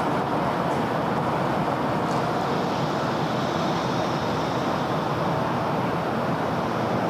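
Steady city road-traffic noise: a continuous wash of car and tyre sound with no single vehicle standing out.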